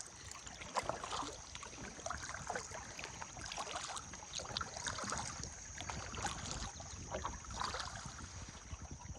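Kayak paddle strokes: the blades dip and splash in the river water in an uneven rhythm, about once or twice a second. A faint steady high-pitched tone runs underneath.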